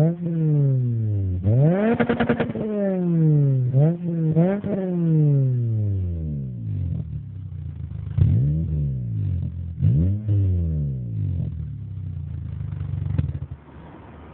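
Toyota Celica engine free-revving through an HKS Super Dragger exhaust: a series of throttle blips, each rising sharply in pitch and dying away slowly. Near the end it drops back to a quiet idle.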